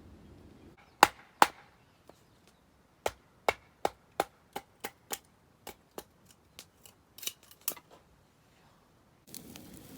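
Knife chopping on a cutting board: two loud chops about a second in, then a run of about a dozen quicker chops that grow fainter.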